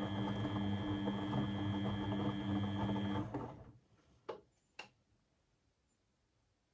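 Beko WMB 71643 PTE washing machine running with a steady motor hum and a high whine, which stops a little over three seconds in. Two sharp clicks follow about half a second apart.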